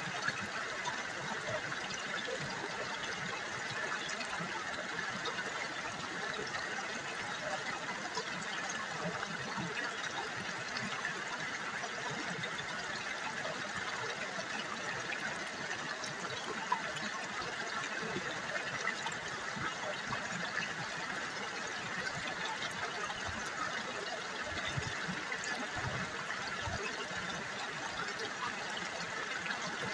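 River water trickling, a steady even babble.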